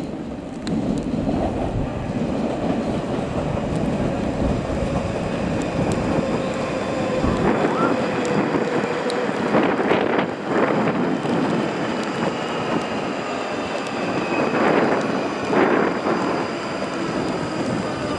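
A passenger train running past on the station tracks, its steady rumble carrying a whine that falls slowly in pitch, with a few louder rushes in the second half.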